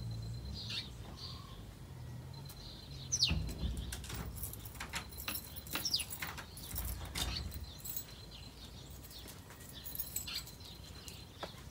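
Birds chirping and calling, with several short high calls that sweep quickly downward, over a faint low rumble.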